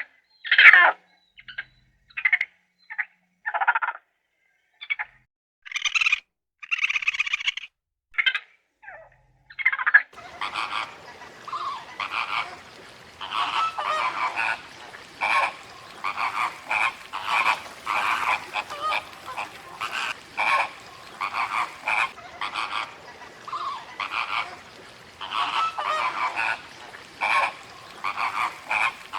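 Frogs croaking: for the first ten seconds, short separate croaks with gaps between them; then, suddenly, a dense chorus of repeated croaks over a steady background hiss.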